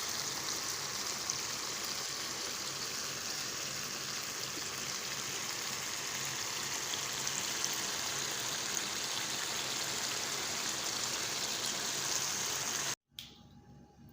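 Steady hissing noise with faint scattered crackles, which cuts off abruptly about 13 seconds in.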